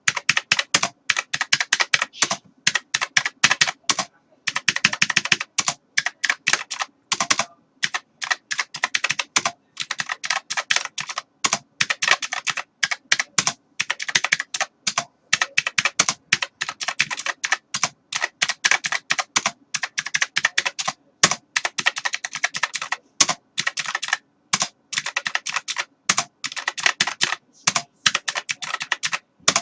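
Fast typing on a computer keyboard, rapid key clicks in bursts of several seconds broken by brief pauses.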